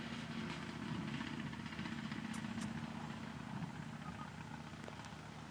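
An engine droning steadily with a low hum that swells about a second in, then slowly fades.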